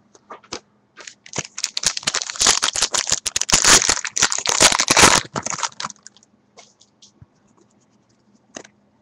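Baseball card pack being handled, its wrapper crinkling and the cards rustling in a dense run of crackles for about four seconds, with a few light clicks before and after.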